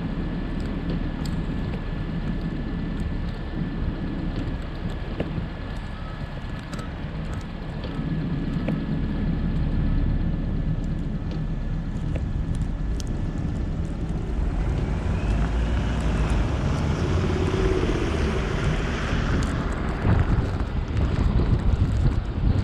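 Car driving on a snowy road: a steady low rumble of engine and tyres with wind noise, growing somewhat louder toward the end. A faint steady high tone runs under it for most of the stretch.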